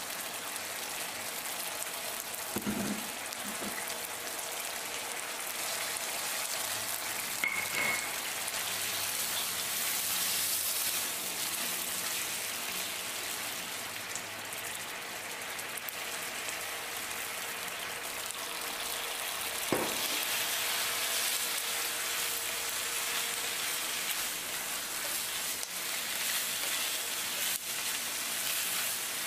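Beef strips in oyster and soy sauce sizzling in a hot wok as they are stir-fried with a spatula, a steady hiss with a few short knocks of the spatula against the pan. Chinese broccoli is tossed in near the end.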